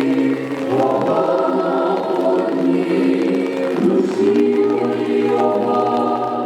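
Choir singing a song in long held notes, several voices moving together from chord to chord.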